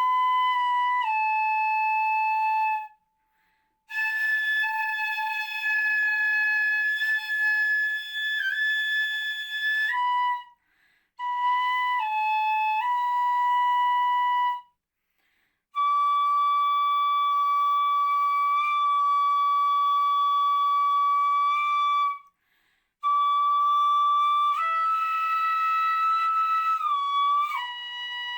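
Solo ryūteki, the gagaku bamboo transverse flute, playing long held high notes in phrases broken by brief breath pauses, with short bends and slides where one note moves to the next.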